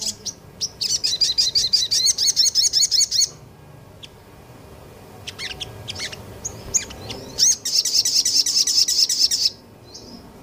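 Small songbird singing a fast, high-pitched rapid-fire song ('nembak'): two long dense runs of quickly repeated notes, with a few scattered chirps in the pause between them.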